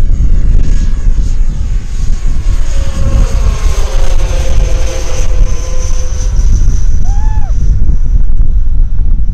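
Electric ducted fans of an RC model jet airliner whining as it flies past, the whine swelling through the middle with its tones shifting, then fading out near the end. Heavy wind rumble on the microphone underneath, and a brief chirp-like call about seven seconds in.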